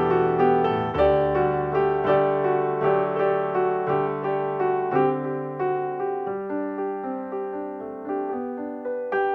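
Background piano music: a steady run of struck notes, each one fading after it sounds.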